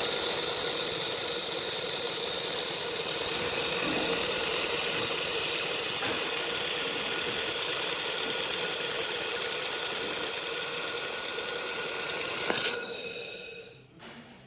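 3000 W handheld fiber laser welder with four-wire feed running: a steady loud hiss with a high whine. It eases off about twelve and a half seconds in and cuts out near the end.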